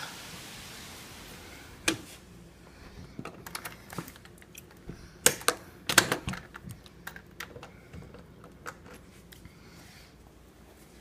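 Handling noise from the recording phone: a run of irregular clicks, taps and knocks, the sharpest about two, five and six seconds in, over a faint hiss that fades early.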